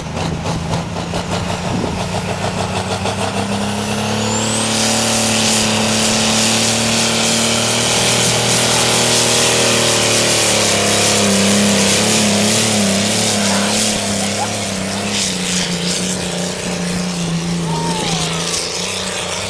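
Diesel puller's engine working hard under load down the pulling track. A high whistle rises about four seconds in, the sound gets louder with a strong hiss for several seconds, then eases off.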